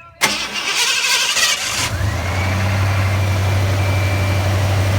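1986 Ford Bronco's 351 Windsor V8 with a four-barrel carburettor cold-starting. It cranks and fires in a loud burst, then about two seconds in settles into a steady idle.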